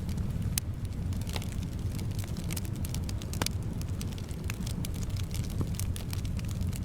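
Wood fire in a fireplace crackling, with irregular sharp pops and snaps over a steady low rumble of burning and soft wind.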